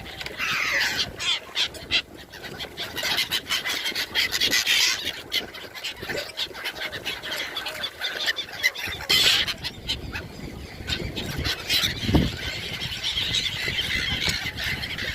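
A large flock of gulls calling over each other in a dense, continuous chorus, with many short sharp sounds mixed in.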